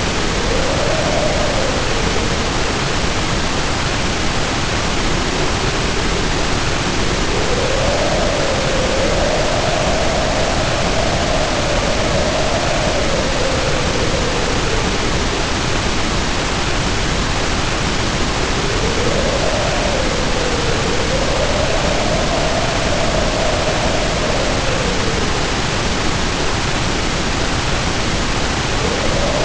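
Heavy rain pouring steadily under howling wind, the howl rising and falling in pitch every few seconds.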